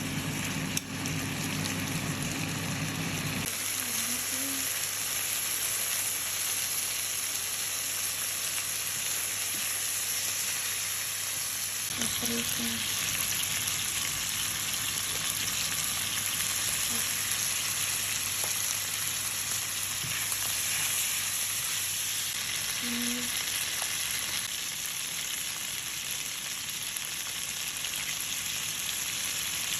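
Chicken wings frying in hot oil in a pan: a steady, dense sizzle. A low hum underneath stops a few seconds in.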